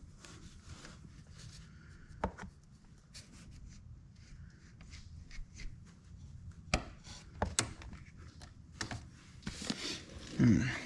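Hand tools and metal parts clicking, tapping and scraping while the ATV's gear shift selector is worked apart, with sharp clicks at about two, six and a half and seven and a half seconds in. A short low falling sound near the end is the loudest moment.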